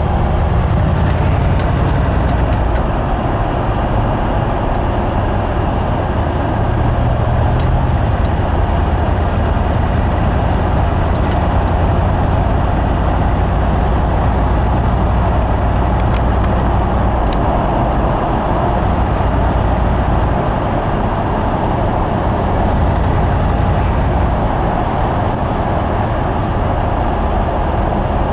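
A 1970 Ford Bronco under way, a steady engine and road noise with a deep low rumble. A few faint clicks come through now and then.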